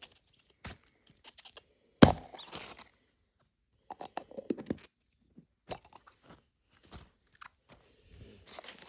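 Hands opening a plastic Mini Brands capsule ball and its paper and plastic wrappings: scattered clicks, crackles and crinkling, with one sharp snap about two seconds in.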